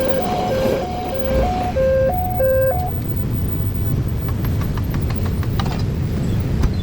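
Railway level-crossing warning alarm sounding its two-tone electronic signal, alternating high and low about twice a second, which cuts off about three seconds in. A steady low rumble of traffic runs underneath.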